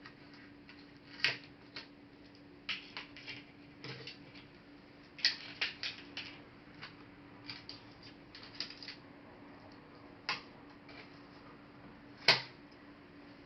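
Irregular sharp clicks and taps of small plastic and metal parts of a Toshiba Satellite A300 laptop being handled during disassembly, with the loudest near the end, over a faint steady hum.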